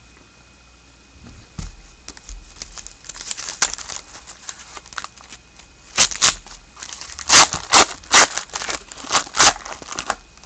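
Trading-card pack being opened and handled: crinkling foil wrapper and the rustle of cards, sparse at first, then a quick run of sharp crinkles and rips in the second half.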